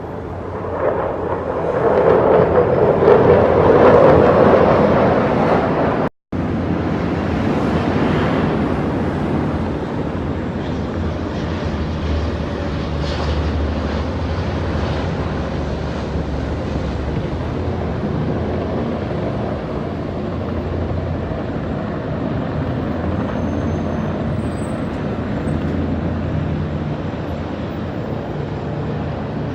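Aircraft flying past: a rush of engine noise that swells and fades over a few seconds. After a brief break about six seconds in, a steady low rumble of engine noise follows.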